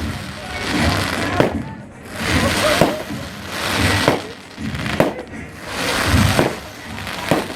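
Fireworks display: sharp bangs, each followed by a swelling crackling hiss, repeating about every second and a half.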